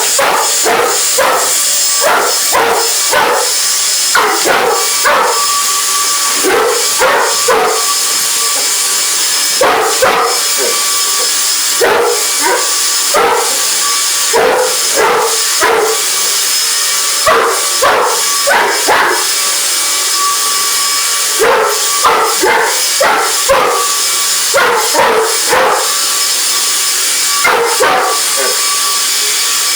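English Mastiff barking over and over, in short clusters of barks with brief pauses, at a vacuum cleaner running steadily with a high hiss and a faint whine.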